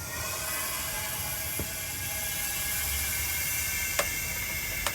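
Air-powered 5-ton floor jack running on shop air, a steady hiss and whir as it lifts a half-ton pickup, with a couple of sharp clicks near the end.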